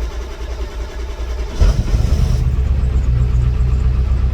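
Ford 7.3L Powerstroke V8 turbo-diesel running rough just after a cold start, misfiring because of bad glow plugs and a bad glow plug relay. About a second and a half in it picks up and settles into a steadier, stronger idle.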